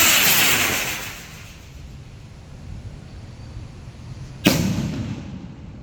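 Blue Thunder kwitis stick rocket hissing as it climbs away, the hiss fading over about the first second, then bursting in the air with one sharp bang about four and a half seconds in.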